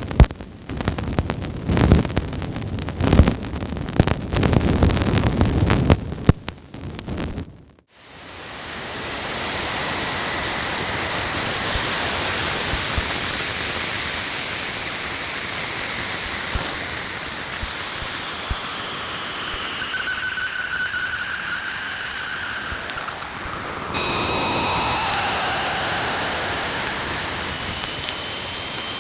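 Spacecraft radio or plasma-wave recording made audible: crackly, bursting static, then after a brief drop-out a steady hiss with faint whistling tones, some sliding down in pitch near the end.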